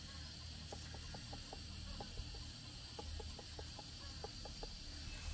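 Chickens clucking in quick runs of short notes, several a second, over a steady background hiss.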